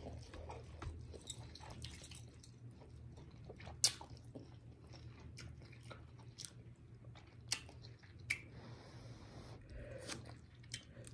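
Close-miked chewing and mouth sounds of someone eating instant bowl noodles, with a few sharp clicks scattered through.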